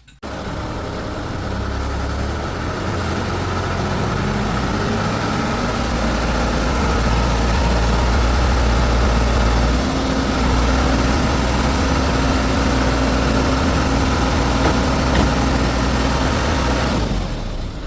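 Heavy vehicle engine running steadily with a deep low rumble. It comes in abruptly at the start, grows a little louder over the first few seconds, and drops away near the end.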